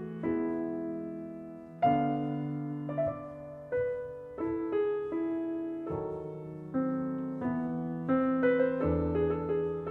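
Calm solo piano background music: slow chords and single notes struck one after another, each left to ring and fade.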